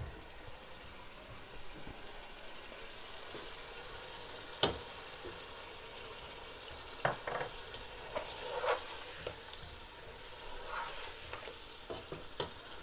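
Mutton, potatoes and masala sizzling steadily in oil in a pot: the bhuna stage of an aloo gosht, where meat and spices are fried before water goes in. A slotted spatula stirs through it, scraping and knocking against the pot a few times, the loudest knock about five seconds in.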